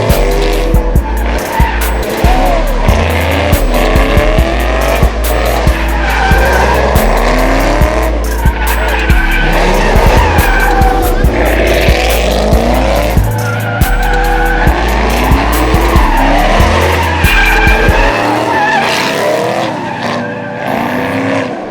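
Car engines revving up and down over and over with tyres squealing as cars slide at a car meet, over loud music with heavy bass notes that drop out near the end.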